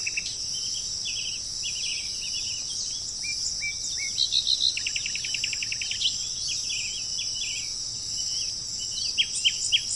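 Songbirds chirping in short, quick notes, with a fast trill about five seconds in and a flurry of sharp notes near the end, over a steady high drone of insects.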